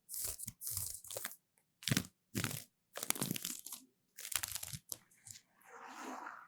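A run of short, crisp crunching and scratching strokes right at the microphone, about ten of them with brief silences between, ending in a softer, duller rustle.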